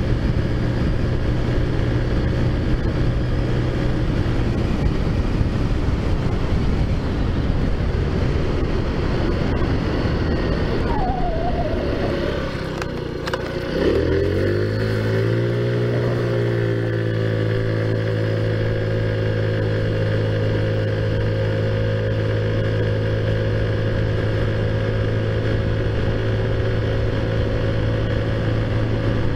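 Taotao Zummer scooter's modified 50cc four-stroke engine running at a steady cruise with wind rushing over the microphone. About eleven seconds in the engine note falls away as the rider eases off, then around the middle it picks up sharply on the throttle and settles back into a steady drone.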